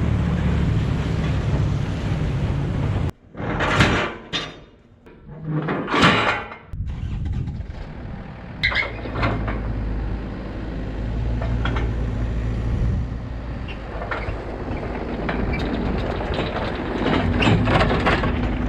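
Compact excavator's diesel engine running steadily. It cuts off abruptly about three seconds in, followed by two short rushing noises. The engine then runs again with scattered clicks and knocks.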